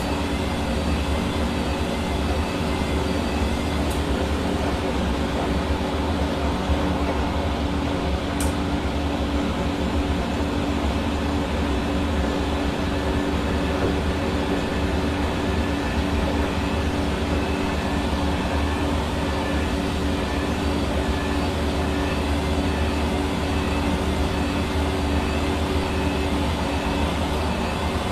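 Hair dryer running steadily: a constant rush of air with the steady hum of its motor.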